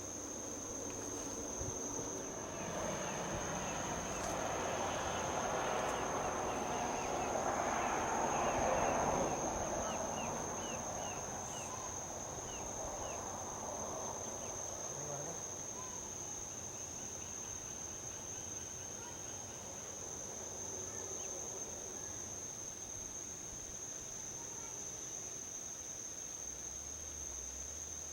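Insects trilling in one steady high note, while a vehicle passing on a highway brings a wash of tyre and road noise that swells over the first several seconds, peaks about eight seconds in, and fades away.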